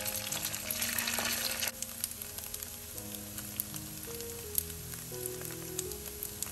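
Taro cake slices sizzling as they pan-fry in a thin layer of oil, with small crackles and pops; the sizzle is louder for about the first second and a half, then settles. Soft background music underneath.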